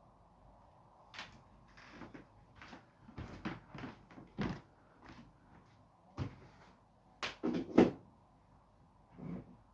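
A series of household knocks, clunks and short scrapes, like a cupboard door and objects being handled, about a dozen irregular strikes. The loudest are three close together near the end.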